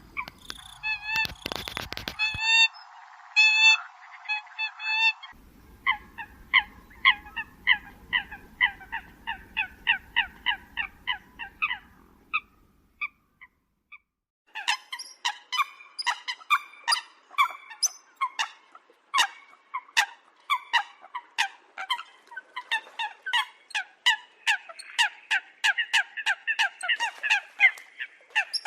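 Eurasian coots calling: rapid runs of short, sharp honking calls, several a second and overlapping as from more than one bird, with a brief pause about halfway through.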